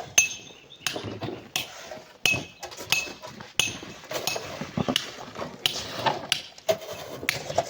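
Metal digging tools striking rock and packed sand again and again, about one sharp strike every three quarters of a second, several with a short metallic ring, with scraping between the strikes.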